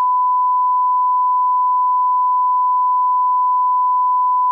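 A steady 1 kHz reference test tone: one pure, unwavering beep held at constant level that cuts off suddenly near the end.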